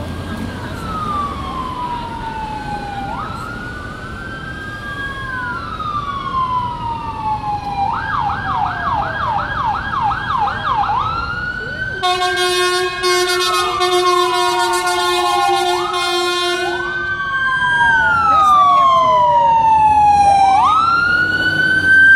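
Emergency sirens of a fire engine and rescue ambulance responding: a wail rising and falling, switching to a fast yelp for about three seconds, then a steady blaring horn for about five seconds before the wail returns, with the trucks' engines running underneath.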